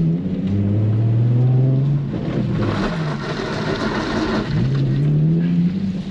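Nissan 350Z's 3.5-litre V6 revving up during a slide on a wet parking lot. The revs climb, drop about two seconds in, then climb again near the end. In the middle there is a rushing hiss from the tyres on the rain-soaked pavement.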